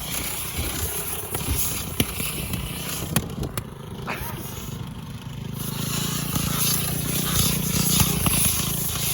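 Small lawnmower engine sputtering and running rough, with scattered knocks and clicks, its low drone swelling louder over the last few seconds.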